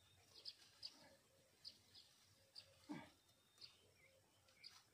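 Faint, short, high bird chirps repeated irregularly, about eight in all. About three seconds in there is a single louder, lower sound that slides downward.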